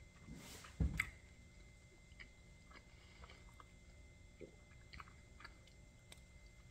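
Close-up chewing and biting of crispy-crusted pizza, with small crunchy clicks. A short thump a little under a second in is the loudest sound.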